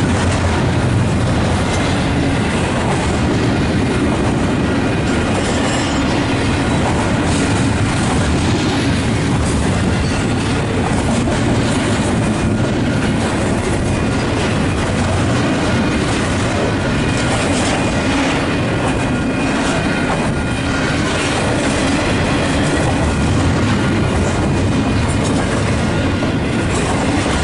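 Freight train cars rolling steadily past at close range, with wheels clicking over the rail joints and faint wheel squeal, under wind buffeting the microphone.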